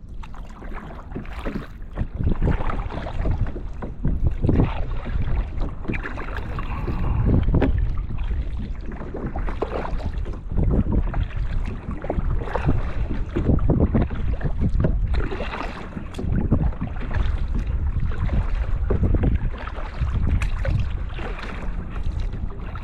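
Kayak paddle dipping and splashing, a stroke about every two seconds, with wind rumbling on the microphone.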